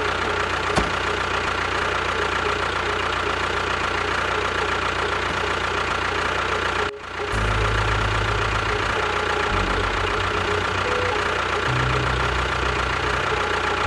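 Steady engine-like running noise of a mini vehicle, with a steady whine over a low hum. It breaks off briefly about seven seconds in and then comes back with a deeper rumble that rises and falls in steps.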